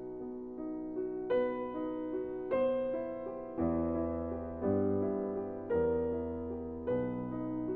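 Slow background piano music, a new chord struck about every second, with lower bass notes joining about halfway through.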